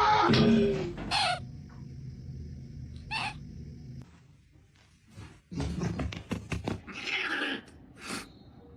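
A cat calling, loud and falling in pitch at the start, followed by a few short sharp sounds and a run of clicks and scuffs.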